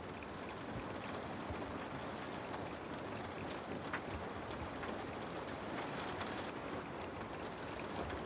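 Steady rain: an even hiss of rainfall with scattered single drops ticking through it.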